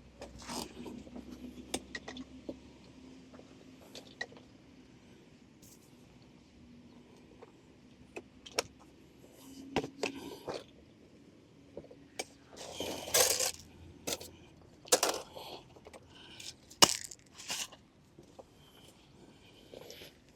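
Scattered metallic clinks, clatters and scrapes of small objects being handled, with a few louder knocks and rattles in the second half.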